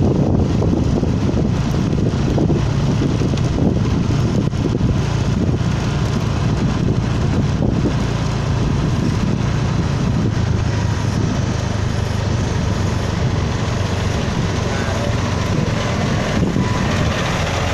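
Diesel engine of heavy road-construction machinery running steadily, a low, even drone with no change in speed.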